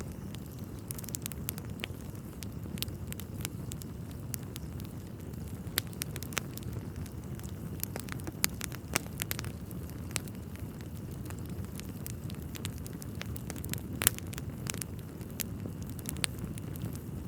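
Wood fire burning in a fireplace: a steady low rumble of flames with irregular crackles and pops from the burning logs, one sharper pop about fourteen seconds in.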